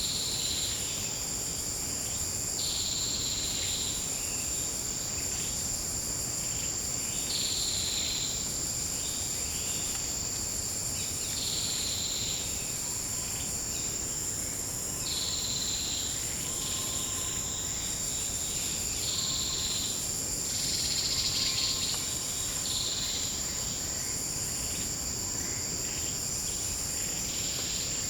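Insect chorus: a steady high-pitched drone with a second insect calling in short buzzes that repeat about every two seconds.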